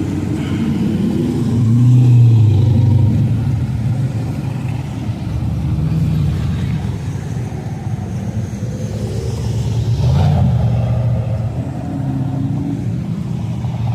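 Cars driving past with their engines running. The engine sound swells as one vehicle goes by about two seconds in and another about ten seconds in.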